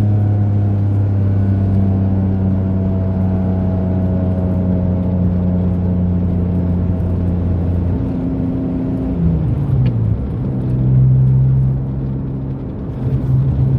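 Mitsubishi 3000GT's SOHC V6 running with gutted catalytic converters, heard from inside the car while driving. The engine note holds steady, easing slightly lower, then about nine seconds in drops in pitch in a short glide and settles into a new, stronger steady note. The exhaust is louder with the cats gutted, a little too loud for the owner's taste.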